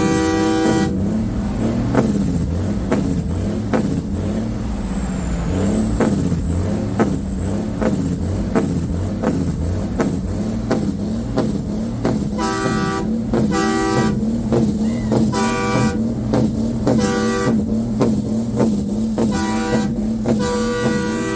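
Semi truck air horn blowing a chord that cuts off about a second in, over a truck engine running with a low pulsing rumble. From about halfway through, the horn sounds again in a string of short toots.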